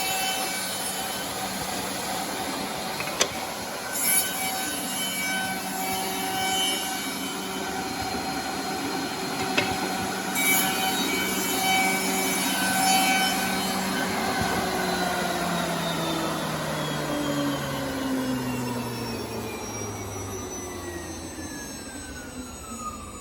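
Automatic CNC double-end tenoning machine running, its cutterhead motors giving a steady whir with a couple of sharp clicks. About two-thirds of the way through the motors are switched off and spin down, the pitch falling steadily as the sound fades.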